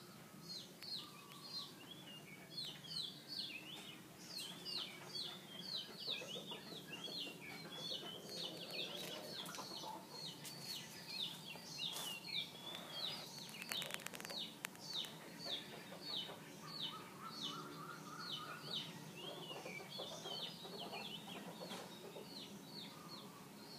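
Small birds chirping without a break, short high notes about two to three a second, over a low steady background hum.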